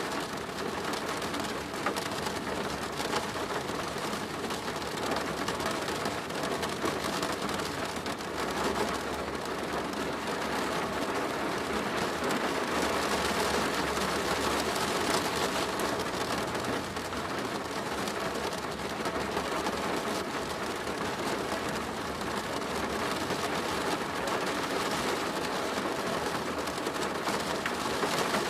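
Steady rain falling on a plastic roof: a dense, continuous patter of many small drop impacts.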